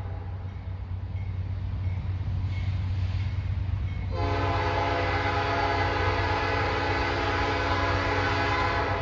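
Diesel locomotive air horn sounding one long blast from about four seconds in, over the steady low rumble of the passing train.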